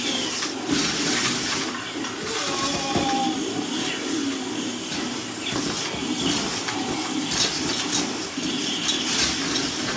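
Henry vacuum cleaner sucking up bits of snack food: a steady rushing with scattered rattling clicks as pieces go up the hose.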